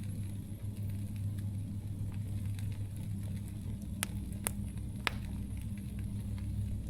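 Wood campfire burning with a steady low rumble, and a few sharp crackling pops from the burning wood near the middle.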